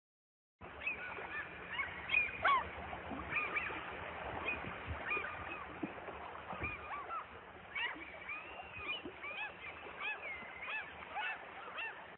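A flock of birds calling, many short rising-and-falling calls overlapping; it starts abruptly about half a second in.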